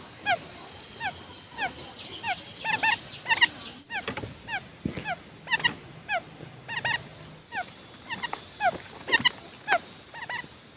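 Quail calling: short, downward-sliding notes repeated over and over, singly and in quick pairs and triplets.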